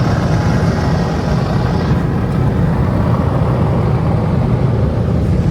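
Automatic car wash air dryer blowers running steadily, a loud continuous rush of air blasting over the car during the drying stage.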